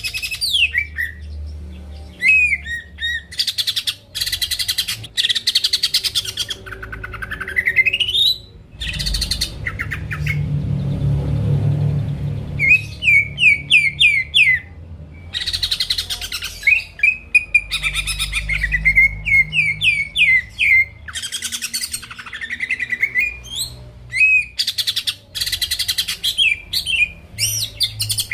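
Cucak ijo (green leafbird) in full, loud song: fast bursts of dense chattering notes alternating with runs of sharp down-slurred whistles and an occasional long rising whistle.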